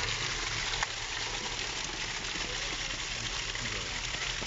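Steady rush of running water, with a single sharp click about a second in.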